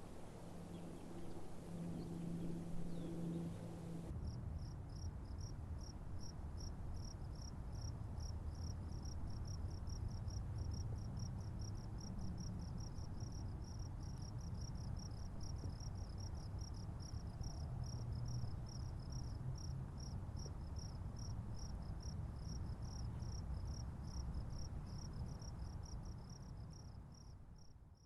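Crickets chirping in a steady, evenly repeated rhythm that starts after a cut about four seconds in, over a low rumble, and fades out at the end.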